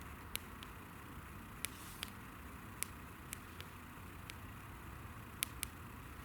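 Wood campfire crackling: about ten sharp, irregular pops over a steady low rumble, the loudest pair near the end.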